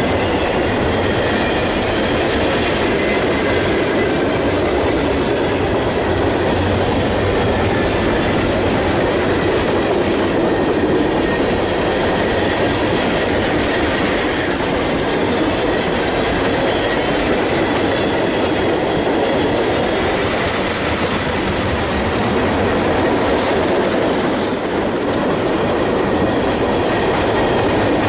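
Freight train cars rolling steadily past at close range: a continuous rumble of steel wheels on rail, clicking over the rail joints, with a faint high wheel squeal.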